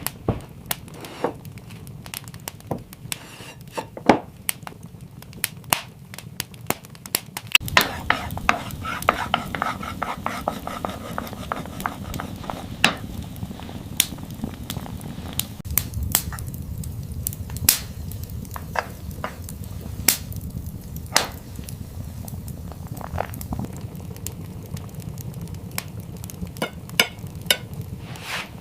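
Cooking sounds: utensils clinking and knocking against pots and pans in many separate sharp strikes. A steady frying hiss comes in about a quarter of the way through.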